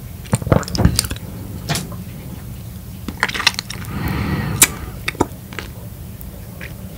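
Close-miked wet chewing of a bite of peeled whole lemon: juicy squelching with many short clicking mouth sounds, and a longer, breathier sound about four seconds in.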